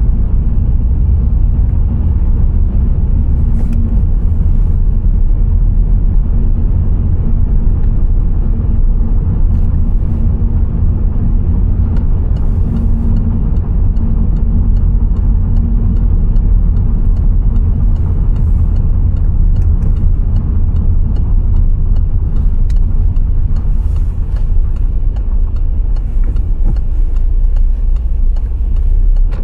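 Car driving along the road: a steady low rumble of engine and tyre noise, with scattered faint clicks above it.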